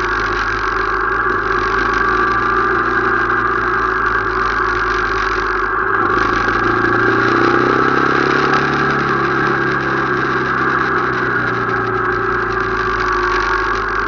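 Motorcycle engine running steadily while under way. Its note rises and falls briefly about halfway through.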